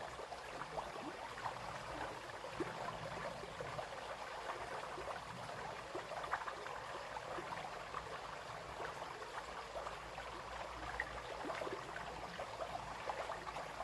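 Small brook flowing steadily over stones, a continuous babbling with many little splashes and plops.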